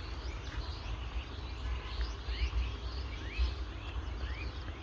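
Small birds chirping, short rising calls repeated a handful of times, over a steady low rumble.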